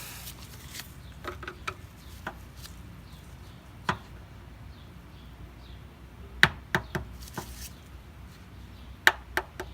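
Sharp clicks and knocks of a screwdriver against the plastic oil drain plug as it is turned the last bit tight. They come singly about four seconds in, then in small clusters of two or three.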